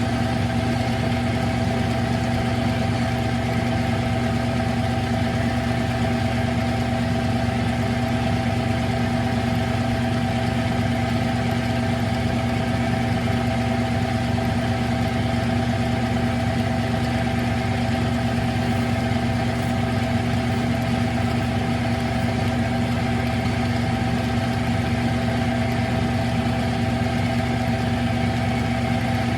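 Smithy CB-1220XL 3-in-1 lathe running at a steady, even hum through a slow facing cut on a transmission nut.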